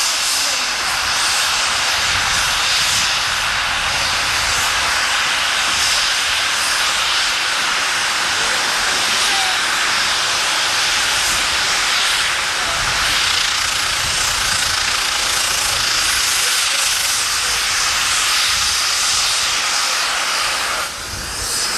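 Steady loud hissing rush over a low rumble from a ride on a 3 ft narrow-gauge steam train, with a brief drop in level near the end.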